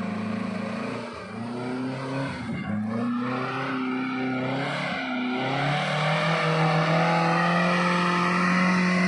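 Off-road 4x4's engine revving under load as the vehicle works along a muddy trail. The engine note shifts up and down in the first half, then holds high and steady from about six seconds in, a little louder.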